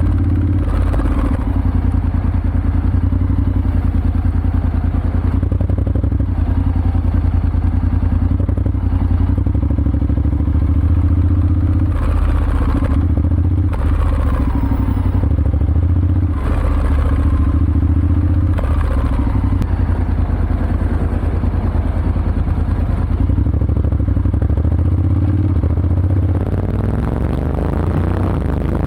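Honda X-ADV 750's parallel-twin engine running steadily through an SC-Project SC-1R slip-on exhaust with the dB killer fitted, a deep, even exhaust note with a few brief dips in pitch.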